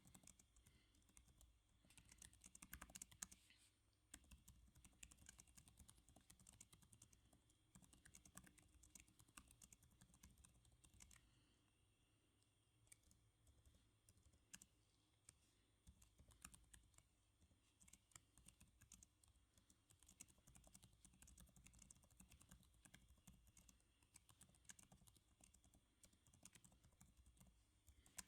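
Soft typing on a computer keyboard: quick runs of keystrokes with short pauses, recorded close and quiet.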